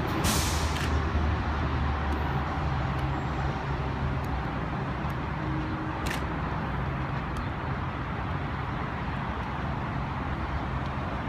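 Electric train running at a station platform: a steady rumble with a low hum, and a short hiss just after the start.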